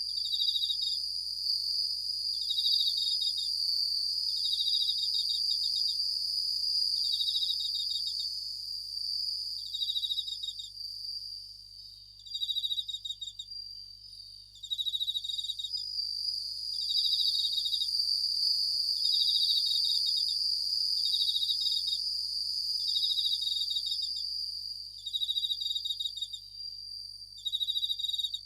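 Japanese bell crickets (suzumushi) singing: short, fast-pulsed ringing trills repeat every two seconds or so over a continuous high insect ringing.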